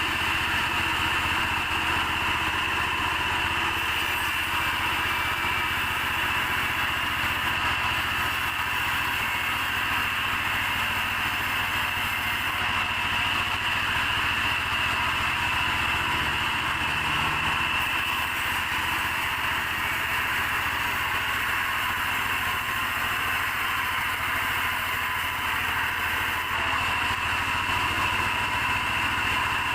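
Sawmill machinery running steadily: an engine-driven saw with a low hum and a steady high whine, unchanged throughout.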